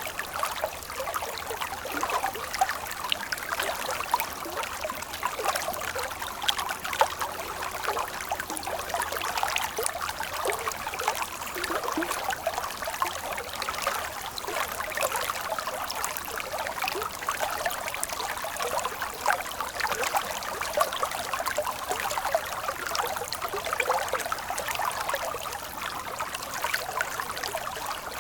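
Stream water flowing and trickling: a continuous babble of many small irregular splashes.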